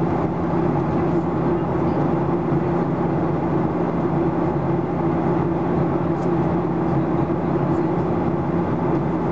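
Steady cabin drone inside a Boeing 737-800 in flight: the hum of its CFM56-7B turbofan engines blended with the rush of air. Constant level, with a low steady hum under the noise.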